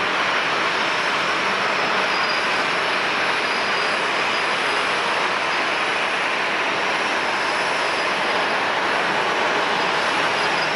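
Jet airliner engines running: a steady, loud rushing noise with a faint high whine.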